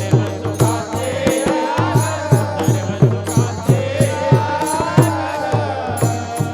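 Kirtan music: a devotional melody carried over a steady beat of drum strokes, about three a second, with bright clicks of small hand cymbals.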